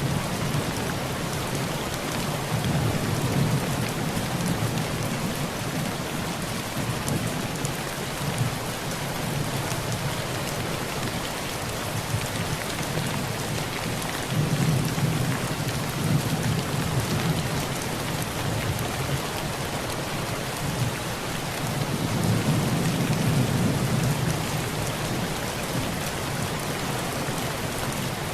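Heavy rain drumming steadily on a tin roof, with low rolls of thunder swelling and fading three times: near the start, about halfway, and late on.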